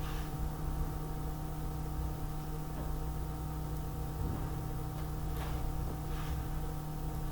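A steady electrical-sounding hum, with a few faint light clicks of handling now and then.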